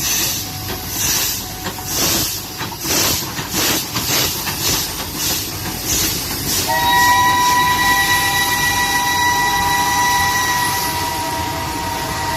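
Steam locomotive passing with a rhythmic beat about twice a second, then sounding its whistle: a long, steady chord of several notes that starts a little past halfway and is held to the end.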